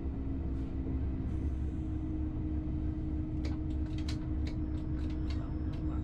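A moving train heard from on board: a steady low rumble with a constant hum, and a quick run of sharp clicks through the second half.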